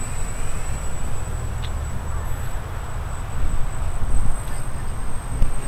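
Strong wind buffeting the microphone: a loud, gusting low rumble that grows stronger about three and a half seconds in, with a thin, steady high-pitched whine beneath it.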